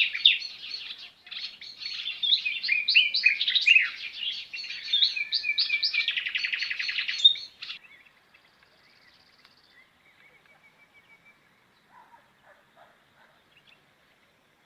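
Small songbirds chirping and twittering in quick, varied high phrases, ending in a fast trill. The song stops about halfway through, and only a few faint, scattered chirps follow.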